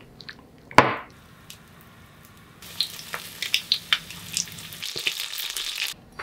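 A single loud knock about a second in. Then, from a little before halfway, starch-coated chicken breast and thick fried tofu pieces shallow-frying in oil in a pan: a sizzle full of crackling pops that cuts off abruptly near the end.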